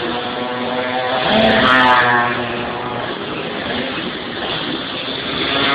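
Racing minibikes' small engines running at speed, with one bike getting louder as it passes about a second and a half in and another near the end.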